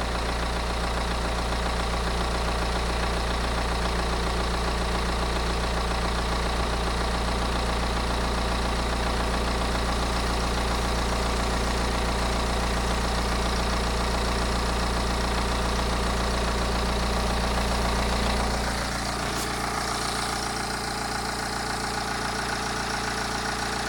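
BMW N47 2.0-litre four-cylinder diesel idling steadily, listened to for timing-chain noise. About eighteen seconds in, the deep low hum drops away and the sound gets slightly quieter while the running continues.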